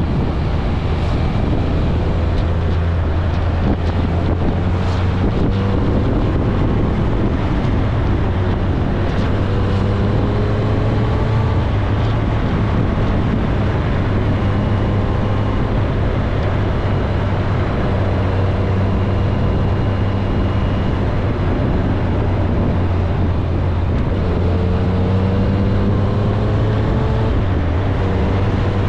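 Kawasaki ZRX1100 inline-four motorcycle engine running at road speed, its pitch rising gently several times as it accelerates, with wind rushing over the microphone.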